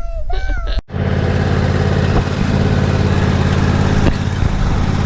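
An engine running steadily at a constant speed, beginning abruptly about a second in after a brief child's voice.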